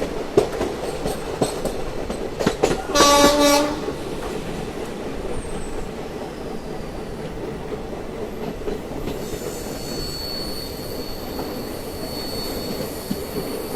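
Train running on the rails, with sharp wheel clacks over the first few seconds and a short horn blast about three seconds in, then a steady rumble with a faint high whine in the second half.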